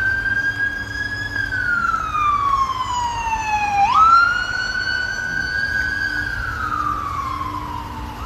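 Emergency vehicle siren on a slow wail: a single tone slowly falling in pitch, sweeping sharply back up about four seconds in, then falling again. A low rumble of road and engine noise runs beneath it.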